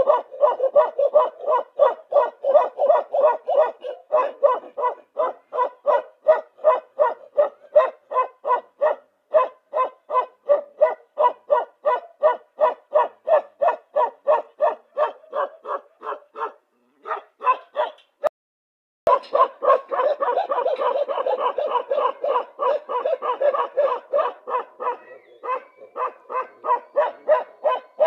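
A dog barking over and over in a quick, steady run, about three barks a second. It breaks off for about a second near the middle, then barking resumes just as fast.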